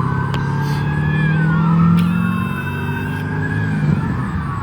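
Police sirens wailing, two or more rising and falling tones overlapping, over the low rumble of idling vehicles. A brief steady tone sounds about two seconds in.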